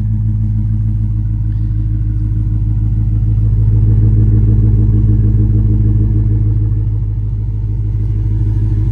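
Dodge Charger R/T's 5.7-litre Hemi V8 idling through an exhaust with the resonator deleted and 5-inch tips: a steady deep exhaust note that swells slightly about halfway through.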